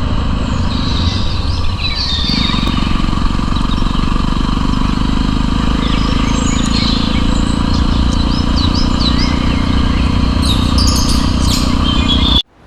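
Birds chirping and singing, with many short rising and falling calls, over a loud, steady low rumble; it all cuts off suddenly near the end.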